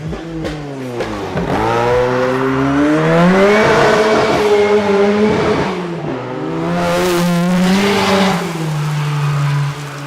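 Turbocharged 2.0-litre Cosworth YB inline-four under hard acceleration: the engine note climbs steadily, drops back about six seconds in as at a gear change, climbs again and settles.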